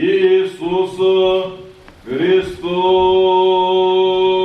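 A man's voice chanting Church Slavonic liturgical text on a reciting tone, the words 'Иисуса Христа'. The last word is drawn out into a long, steady held note from about two and a half seconds in.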